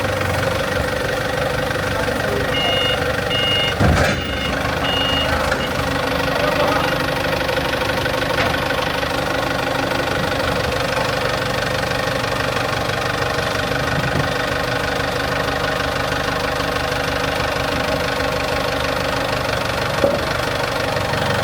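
Excavator engine running steadily at idle. A few short high beeps sound about three to five seconds in, with a single sharp knock about four seconds in.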